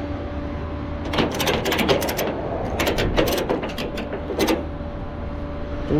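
Bursts of rapid mechanical clicking and rattling, in three clusters, over a steady low hum.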